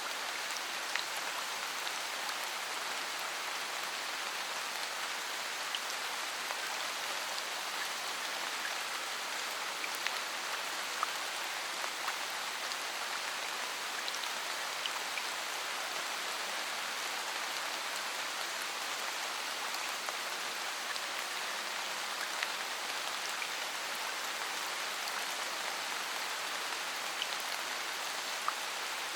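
Steady rain falling: an even hiss with scattered single drop hits. No thunder.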